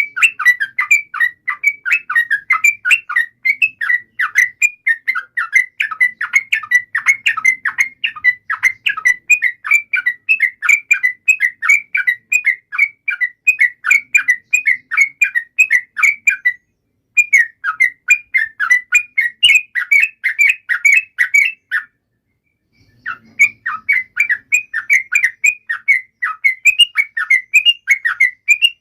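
Yellow-vented bulbul (trucukan) calling in long runs of rapid, chattering notes, broken by two short pauses about 17 and 22 seconds in.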